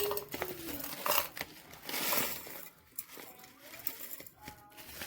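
Dry loose leaf tea rustling and pattering as it is poured into a glass teapot's infuser, with a few light clicks near the start and a burst of rustling about two seconds in.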